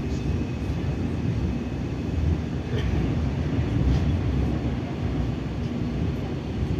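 Steady low rumble of a Moscow metro 81-740.1 'Rusich' articulated train under way, heard from inside the passenger car, with a couple of faint clicks about three and four seconds in.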